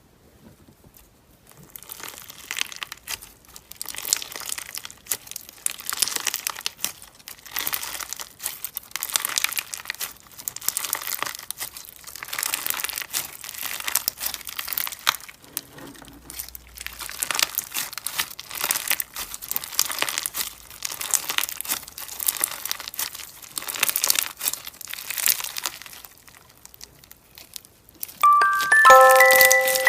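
Paper being handled, with quick irregular crinkling and scratching noises that stop shortly before the end. A bright, bell-like melody of background music starts near the end.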